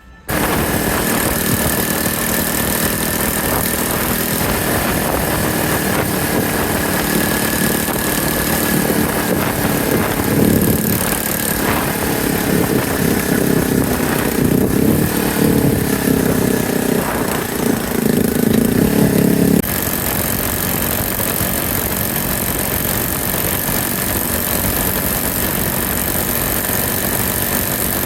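Yamaha TW200's single-cylinder four-stroke engine running on the move under a steady rush of noise. Between about ten and twenty seconds in, the engine note grows louder and shifts in pitch, then cuts off suddenly.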